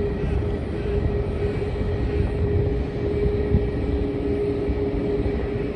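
Steady jet aircraft engine noise with a constant whine, over a low rumble of wind on the microphone.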